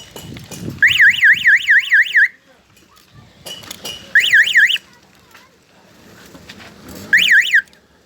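Electronic bicycle horn sounding a fast warbling siren tone, about five up-and-down sweeps a second, in three bursts: a longer one about a second in, then two short ones.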